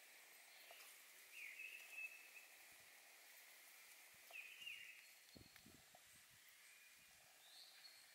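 Faint birdsong in a quiet forest: short sliding calls, one pair about a second and a half in and another about four and a half seconds in, with a weaker one near the end. A few faint low knocks come just after the middle.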